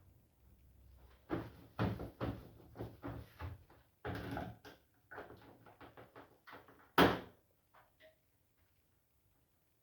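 Arctic washing machine in service mode making a run of irregular knocks and clunks, the loudest a sharp bang about seven seconds in, then a few faint ticks.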